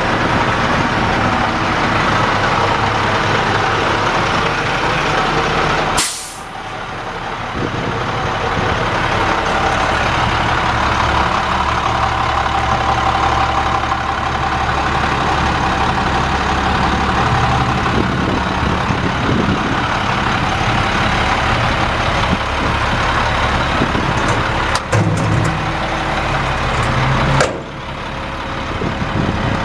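International 4900 dump truck's DT466 inline-six diesel engine running steadily, with a short sharp burst of noise about six seconds in and another near the end.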